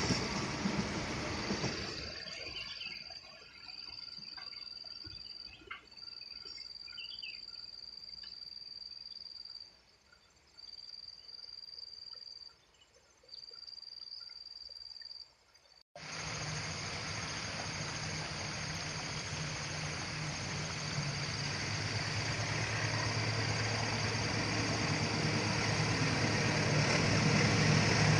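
The noise of a passing train dies away over the first two seconds. Insects then trill in a steady high tone that stops and starts every few seconds. After a sudden change about 16 seconds in, a low engine hum and rumble build steadily in loudness, as of a diesel engine drawing nearer.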